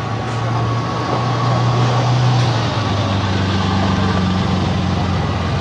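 Bugatti EB110's quad-turbo V12 running at a steady low engine note as the car rolls slowly past, with no revving.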